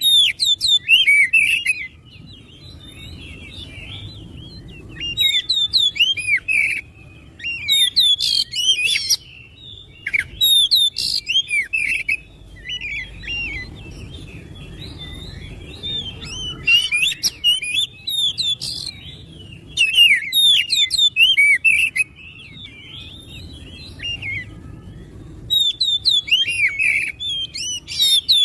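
Oriental magpie-robin singing in loud bursts of fast, varied whistles and sweeping chattering notes. Each phrase lasts one to a few seconds and they repeat after short pauses.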